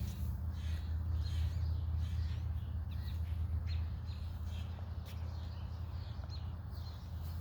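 Birds chirping outdoors: short high chirps, scattered several to a second, over a steady low rumble.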